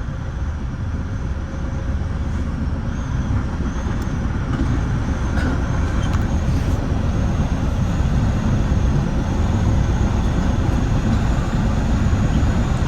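Steady low rumble of a Metra bi-level commuter car running at speed on the rails, heard from inside the car, slowly growing louder, with a few faint clicks in the middle.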